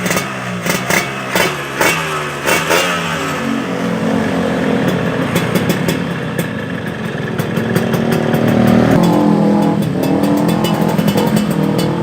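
Yamaha RX-King two-stroke single-cylinder engine running through a racing expansion-chamber exhaust. It is blipped in a quick series of short revs for the first few seconds, then held at a steadier, rising speed, dropping briefly and picking up again about three-quarters of the way through.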